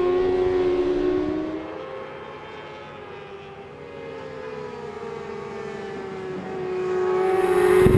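Racing superbike engines passing at high revs, their pitch gliding down as one goes by. The sound fades mid-way, then another bike comes in louder near the end.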